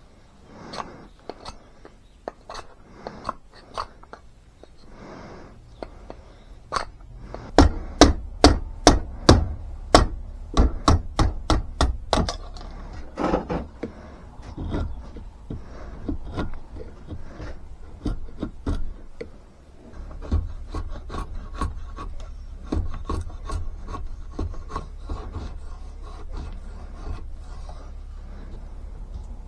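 Hand-working a block of seasoned ash with knife and hand tools: irregular scraping and shaving strokes of steel on wood. A few seconds in comes a run of loud, sharp knocks on the wood, about two a second.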